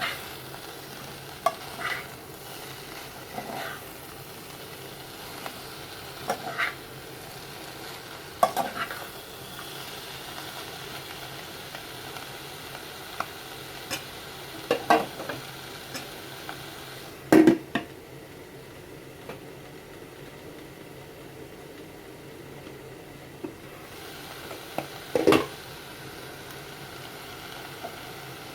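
Stir-fry sizzling steadily in a frying pan, stirred with a utensil that knocks and scrapes against the pan now and then, loudest about two-thirds of the way through and again near the end.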